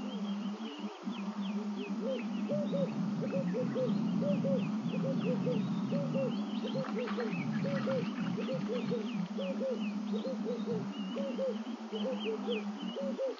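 Wild birds calling: a steady run of short, low arched hoots in twos and threes, roughly two a second, over many quick high down-slurred notes, with a steady low hum underneath.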